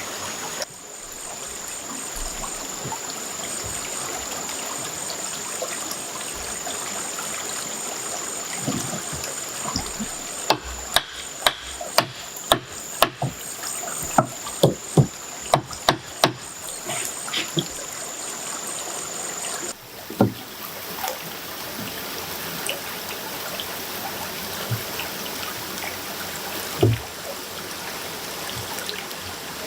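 Steady running water, like a small stream trickling, with a high steady tone over it for the first two-thirds. In the middle comes a run of about a dozen sharp knocks, roughly two a second.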